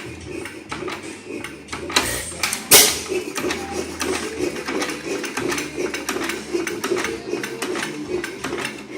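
5 hp Galloway hit-and-miss engine running, a fast steady clatter of clicks from its moving parts, with one louder bang about three seconds in.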